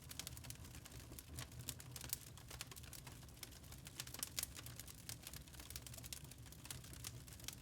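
Wood fire crackling in a fireplace: irregular sharp pops and snaps of burning logs over a steady low rumble of the flames.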